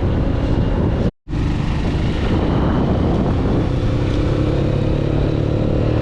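Motorcycle engine running on the move, with heavy wind buffeting on the microphone. The sound drops out for an instant about a second in, and a steady engine note stands out more clearly in the second half.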